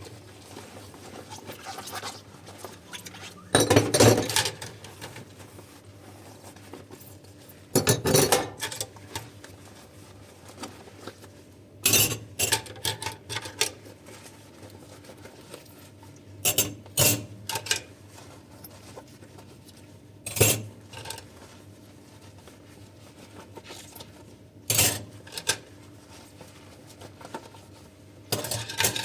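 Dishes and cutlery being handled while washing up by hand, clinking and knocking against each other in short clusters every few seconds.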